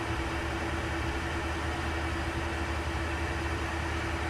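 Steady in-flight cockpit noise of a Learjet 60XR business jet on approach: an even hiss of airflow with a constant low hum and one held tone.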